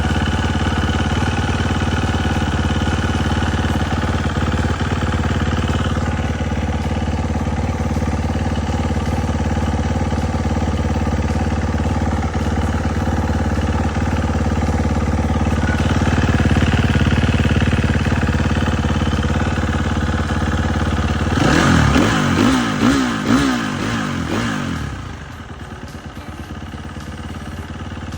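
An engine idling steadily, revved in several quick rises about 21 seconds in, then settling back to a quieter idle.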